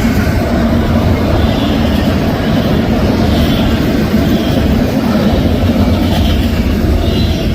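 Union Pacific intermodal freight train rolling past close by: a loud, steady rumble of cars on the rails.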